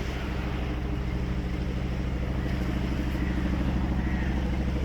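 Helicopter rotor blades beating in a rapid, even pulse as it flies over, growing slightly louder; taken for a Chinook twin-rotor helicopter.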